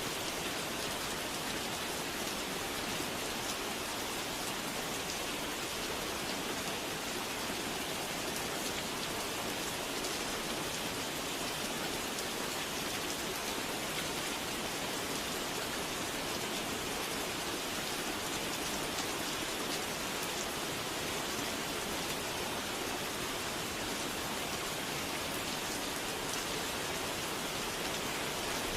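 Steady rain falling, an even hiss of drops without change.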